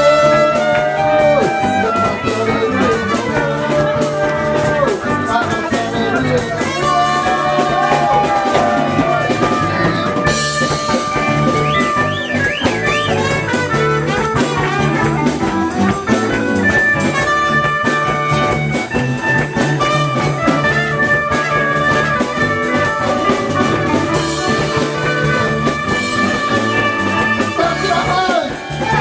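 Live band playing an instrumental passage: long held melody notes over a steady beat, loud throughout.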